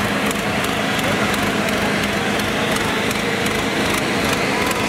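Mahindra Arjun 605 tractor diesel engines running hard and steady under heavy load in a tractor tug-of-war.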